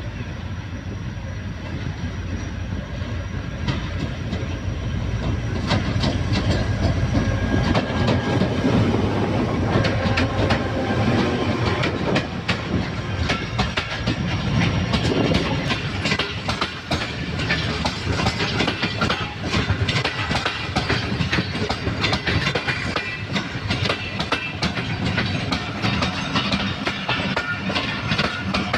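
Passenger coaches of the Karachi Express rolling past, the wheels clicking steadily over rail joints under a heavy rumble. The sound grows louder about six seconds in.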